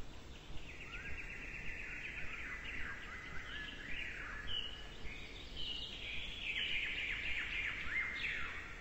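Birds chirping and twittering in a dense chorus of quick, repeated calls, starting about half a second in.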